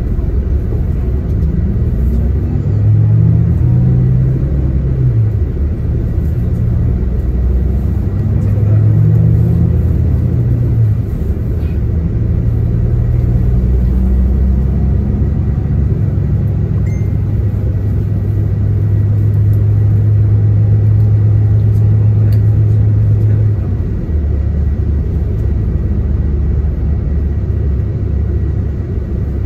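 Diesel bus engine heard from inside the passenger cabin while under way. Its note climbs and falls a few times in the first ten seconds or so, holds a steady drone for several seconds, then drops away about 24 seconds in.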